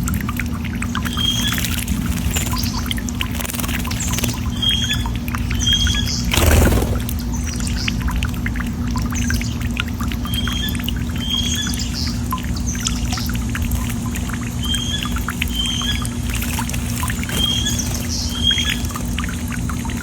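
Small birds chirping outdoors: short high chirps, mostly in pairs, repeat every second or two over a steady low hum. A brief louder rush of noise comes about six and a half seconds in.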